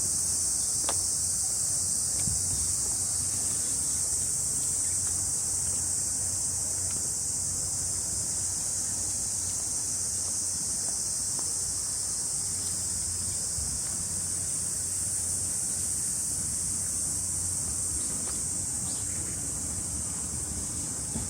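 Chorus of summer cicadas: a steady, unbroken high-pitched shrill, with a faint low rumble underneath.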